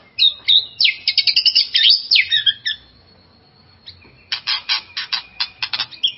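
White-rumped shama (murai batu) in loud, excited song: a fast run of varied whistles and trills, a short pause with a thin held whistle, then a rapid chatter of harsh notes, several a second, near the end.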